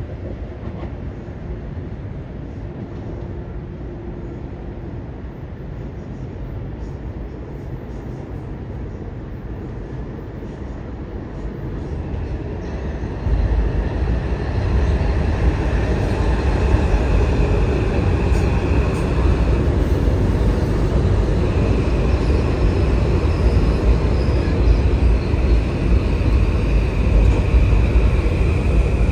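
Metro-North commuter train running through the station, a steady rumble that gets suddenly louder about halfway through, with a thin high whine coming in over the deep rumble.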